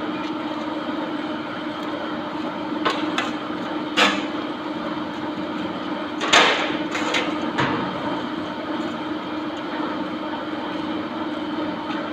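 A steady machine hum with a scattering of sharp knocks, about six in all, the loudest about six seconds in.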